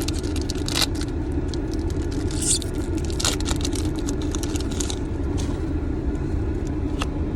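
Foil booster-pack wrapper crinkling and tearing open, with quick scrapes and crackles of the wrapper and cards being handled, over the steady low hum of the car's cabin.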